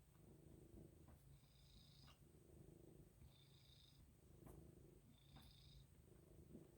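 Domestic cat purring softly in slow pulses, with short high bird chirps from the playing video heard three times over it.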